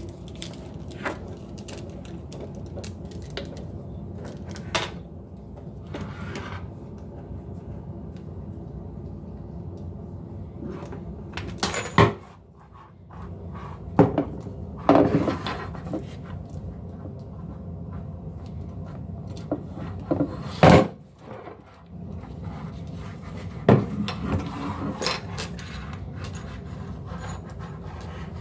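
Faucet parts being handled and fitted during a sensor faucet install: scattered knocks, taps and clattering of hard pieces, with a few louder knocks near the middle, over a steady low hum.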